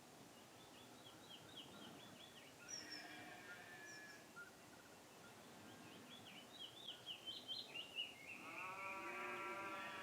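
Faint outdoor ambience with a bird singing two runs of quick repeated chirps, then a sheep bleating in one long call near the end.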